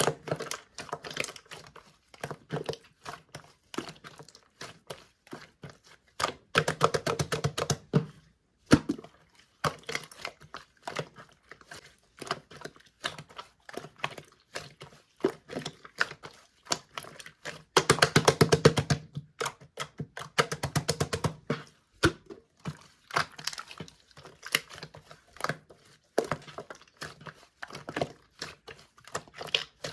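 Clear, jelly-textured slime being poked and squished by hand, making a run of sticky clicks and small pops. Two denser stretches of rapid crackling pops come about seven seconds in and again around eighteen seconds in.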